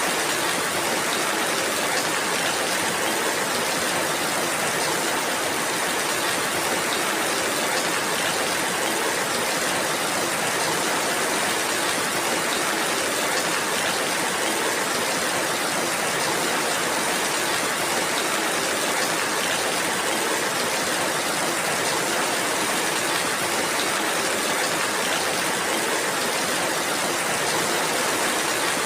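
Steady rainfall, an even hiss of rain without breaks or single standout drops.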